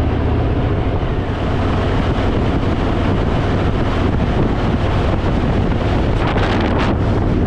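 Wind rushing over the microphone of a rider on a Harley-Davidson Fat Boy at road speed, over the steady low rumble of its V-twin engine.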